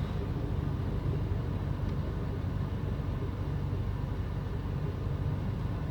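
Vehicle engine running steadily, a continuous low hum under an even rushing noise.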